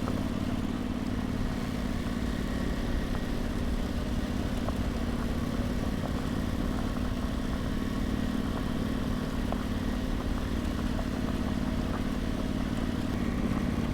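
Adventure motorcycle engine running steadily at low speed while climbing a loose-rock dirt switchback, with an even hum that holds the same pitch throughout.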